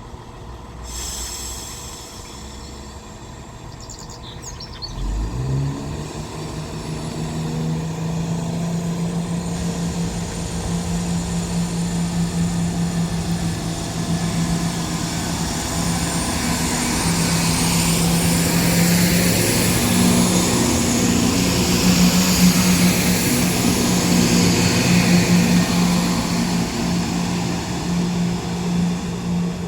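CrossCountry Class 170 Turbostar diesel multiple unit pulling away from the platform. Its engines open up about five seconds in with a steady low engine note, and the running noise grows louder as the train gathers speed.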